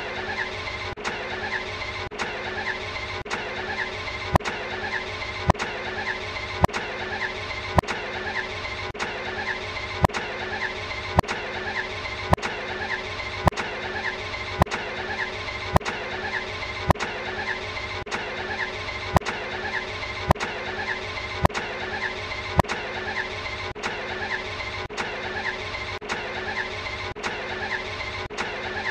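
Ferrari Enzo's V12 engine sound: a snippet of about a second, looped over and over, with a sharp click at each join about once a second.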